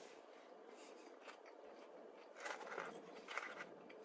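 Very quiet eating: a person chewing cheese-covered fries, with two brief soft sounds near the end.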